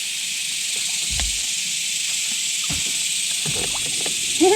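A steady high hiss with two soft low thumps, one about a second in and one near three seconds in.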